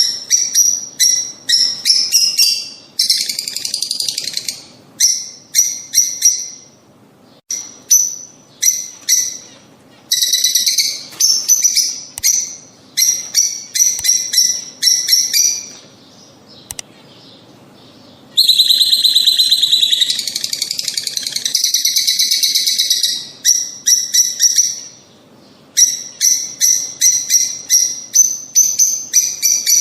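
Lovebirds calling: runs of sharp, high chirps in quick succession, broken by longer stretches of continuous chattering, the longest lasting about five seconds from around 18 seconds in.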